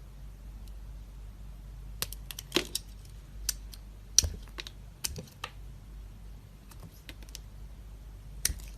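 Dry soap being cut with a knife: a run of crisp clicks and cracks about two seconds in, lasting a few seconds, then another crack near the end.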